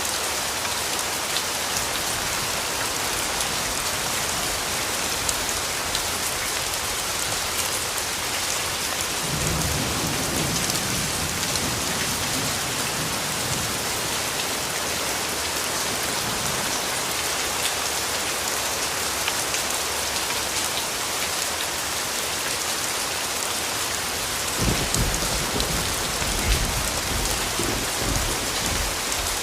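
Steady rain falling on leaves and ground, with distant thunder rumbling twice: once about nine seconds in and again near the end.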